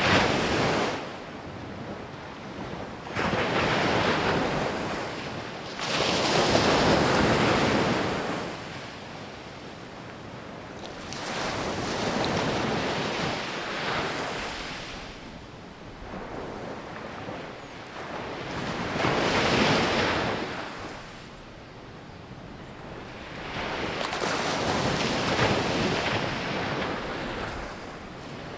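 Ocean waves breaking and washing up a sandy beach, the surf swelling and fading in a slow rhythm of a surge every few seconds, with some wind on the microphone.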